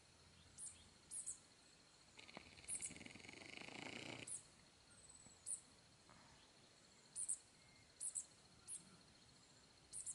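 Faint, short high-pitched bird chirps, scattered about a second apart, over a faint steady high whine, with a soft swell of noise between about two and four seconds in.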